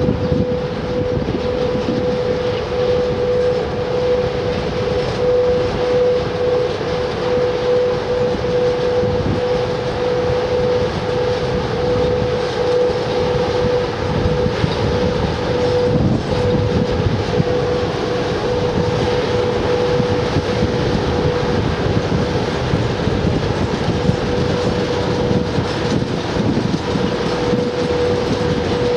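A train running, with a steady mid-pitched hum over a continuous rumble.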